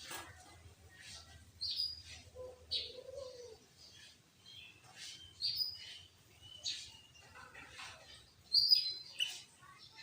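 Sooty-headed bulbul (kutilang) calling: short, sharp, high chirps and whistled notes repeated about once a second, with the loudest burst of calls near the end.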